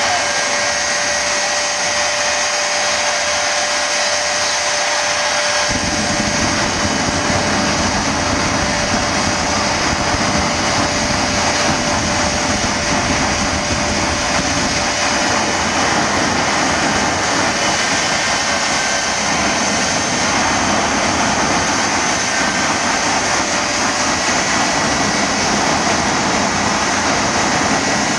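Jet engine running continuously, a steady loud rush with a high whine. A deep rumble comes in sharply about six seconds in.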